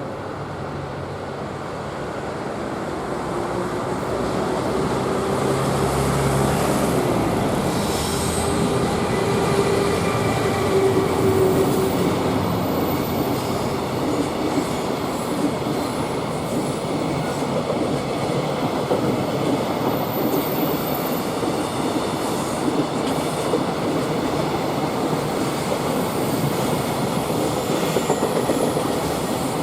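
Electric-hauled freight train passing close by: a locomotive draws near with a steady mid-pitched tone, then a long string of container wagons follows with a dense, continuous rattle of wheels on the rails.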